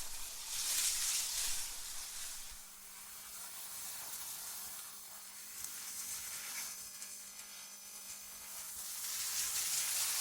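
AI-generated wind ambience: a hissing rush of wind that swells in a gust about a second in, eases off through the middle, and builds again near the end, over a faint steady low hum.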